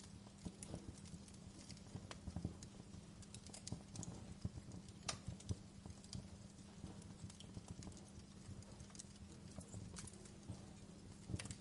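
Wood fire in a fireplace crackling: irregular sharp pops and snaps over a low steady rumble, with a louder pop about five seconds in and another near the end.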